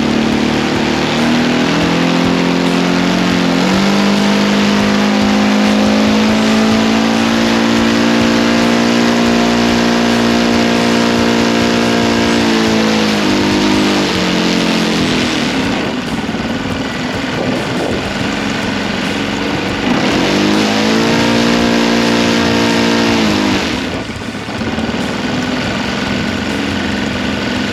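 O.S. GF40 four-stroke gasoline engine on an RC airplane, run up on the ground while it is being tuned. The throttle opens about four seconds in and holds high for about eight seconds, then drops back to a rough low speed. It is run up again for about three seconds around twenty seconds in, then falls back toward idle.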